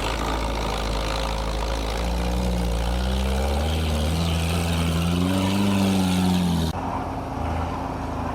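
An off-road vehicle's engine revving under load, its pitch rising and falling several times over a steady hiss. About two-thirds of the way in, the sound cuts off abruptly to a lower, steadier engine running.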